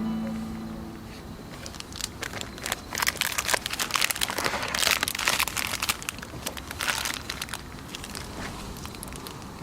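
Rapid crinkling and crackling of something being handled by hand. It starts about two seconds in and is busiest in the middle.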